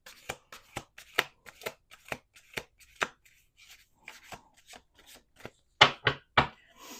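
A deck of oracle cards being shuffled and handled by hand: a run of irregular light card flicks and taps, with a few louder snaps about six seconds in.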